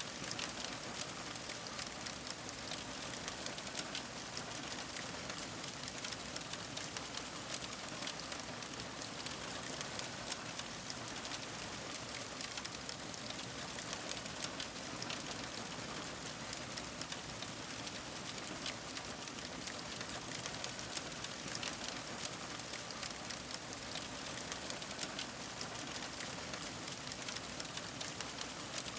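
Fire crackling steadily: an even hiss dotted with many small, sharp crackles and pops.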